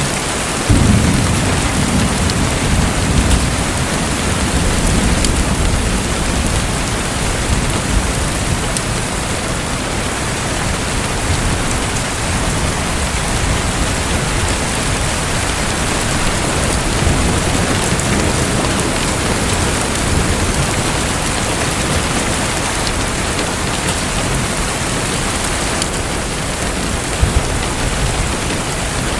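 Steady, loud hiss of falling water, like heavy rain. A low rumble swells about a second in and fades away over a few seconds, with weaker rumbles later.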